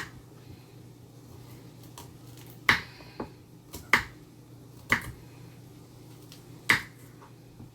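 Kitchen knife chopping carrots on a cutting board: slow, uneven single chops, about five sharp knocks roughly a second apart.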